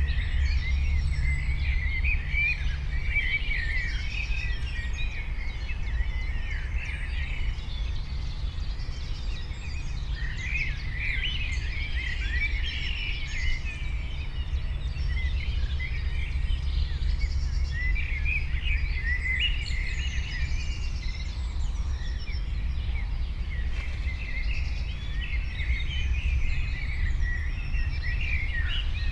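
Several songbirds chirping and trilling over one another without pause, over a steady low rumble.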